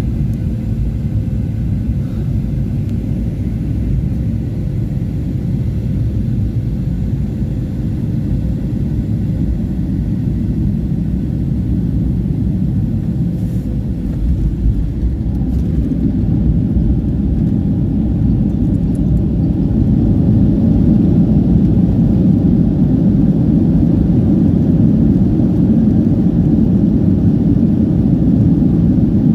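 Ryanair Boeing 737 airliner landing: a steady low rumble of engines and airflow that grows louder and fuller a little past the middle.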